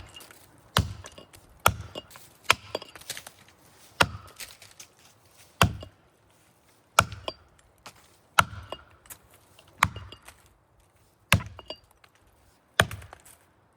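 Axe chopping into a hard maple trunk to cut the face notch: about a dozen sharp strikes roughly a second apart, with a short pause about halfway through.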